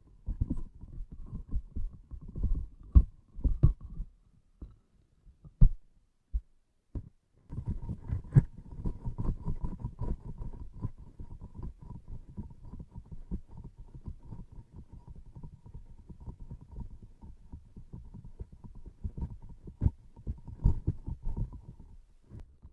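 Sticky transparent objects pressed and handled close to the microphone: a dense run of soft low thumps and tacky crackles, with a pause of a few seconds early on and a faint steady tone under the later part.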